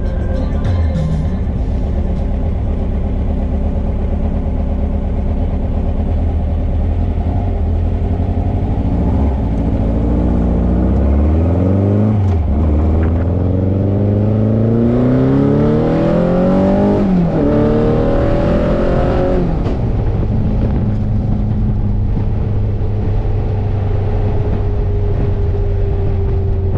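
Air-cooled 2783cc VW flat-four engine in a 1961 VW convertible idling steadily, then revved up and dropped back three times in quick succession before settling to idle again. The engine is being run in on new main bearings and seals.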